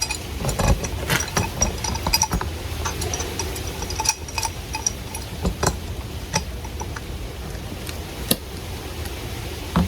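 Wrench and water pump pliers on a PVC compression coupling nut as it is tightened: irregular clicks and clinks of the metal tools against the fitting.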